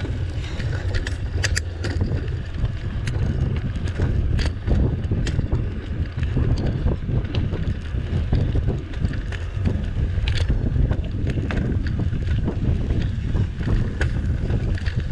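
Wind buffeting the microphone on a moving mountain bike: a steady low rumble with scattered sharp clicks and rattles, a few of them about a second and a half, four and a half and ten seconds in.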